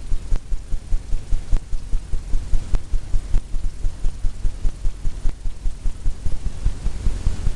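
Fan brush loaded with liquid white tapping repeatedly against a stretched canvas, a quick, steady run of low thumps, several a second.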